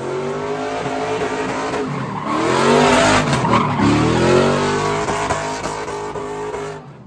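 A car's engine revving hard, its pitch rising and falling again and again, while its tires squeal and skid on the pavement during a street-takeover stunt. The squealing is loudest from a little over two seconds in to about four and a half seconds in, then dies away near the end.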